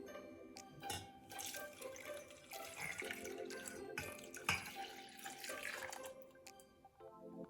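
Liquid running or pouring, faint, over background music.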